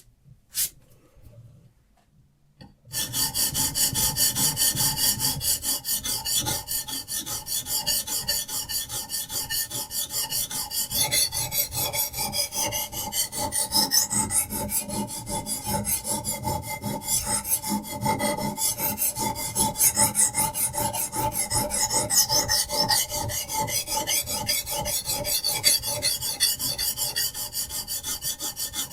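A few sharp clicks, then from about three seconds in a diamond sharpening stone on a Hapstone RS guided arm is rasped in quick, even back-and-forth strokes along the edge of a knife blade.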